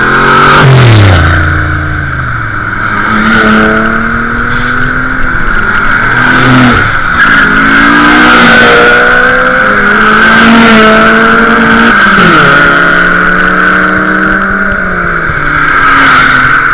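Car engine revving, its pitch climbing and dropping again several times, over a steady high tyre squeal that lasts throughout, as in a car drifting.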